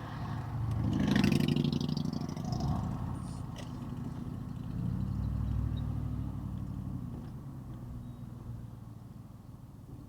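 A car engine pulling under acceleration while driving, rising about a second in and again around five seconds, with a brief rushing noise near the first rise.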